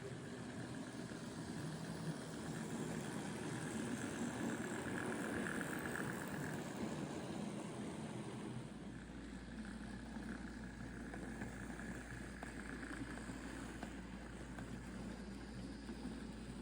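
Bachmann OO gauge Thomas the Tank Engine model locomotive running on track: a steady whir of its small electric motor and wheels on the rails. A steady low hum comes in about halfway through.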